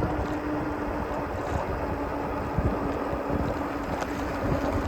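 Wind rumbling on the microphone of a moving e-bike, over a steady electric motor hum that sinks slightly in pitch.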